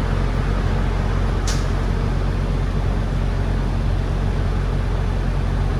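Semi truck's diesel engine running with a steady low hum, with one brief high hiss or click about a second and a half in.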